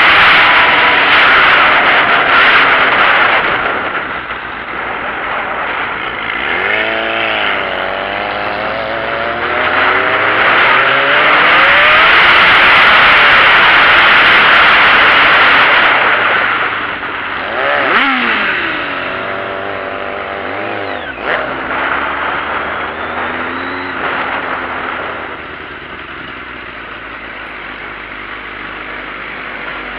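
Sport bike engine revving hard, its pitch climbing and falling twice. A loud rushing noise covers it for stretches, and the engine settles lower near the end.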